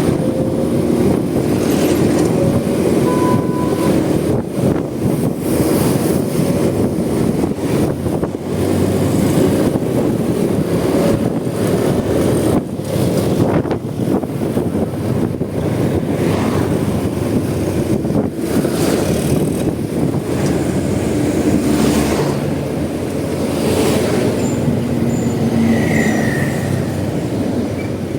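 Ride sound of a Honda Supra X 125 motorcycle under way: the small single-cylinder four-stroke engine running steadily under a constant rumble of wind and road noise, with irregular buffeting thumps throughout.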